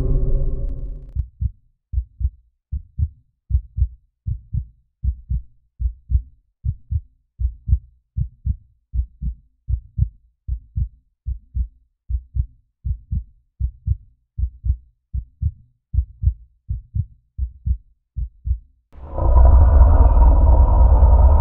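Heartbeat sound effect: a slow, steady lub-dub, about one beat a second. Near the end a sudden loud low rumble with a steady hum cuts in.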